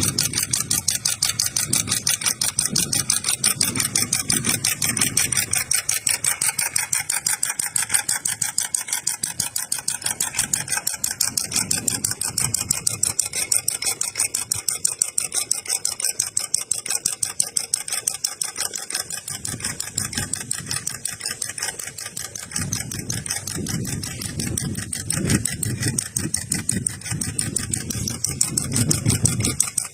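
Model four-stroke horizontal water-cooled gasoline engine, built as a hot-bulb engine replica, running with a fast, even clatter of firing strokes. Its deeper beat weakens in the middle and comes back stronger near the end.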